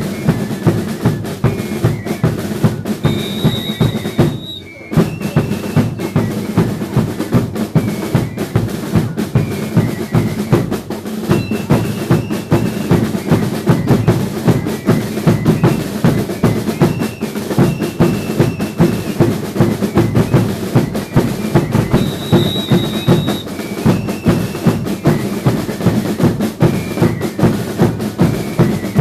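Drum band of a religious dance troupe playing a fast, steady beat on bass and snare drums, with short high notes sounding over it now and then. The drumming drops out for a moment about four and a half seconds in, then carries on.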